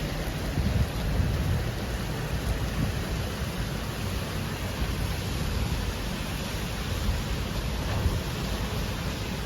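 Wind buffeting the microphone in a low, uneven rumble over a steady wash of outdoor noise.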